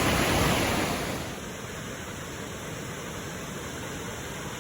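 Steady rushing of falling water from the waterfall and its creek, a constant roar that drops in level about a second in and then holds steady.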